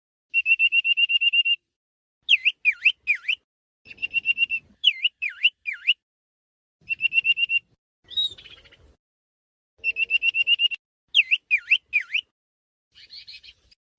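Huýt Cô bird singing a repeated phrase: a fast, even trill on one high pitch for about a second, then three notes that each swoop down and back up. The phrase comes round about every three seconds, with faint rustling in between.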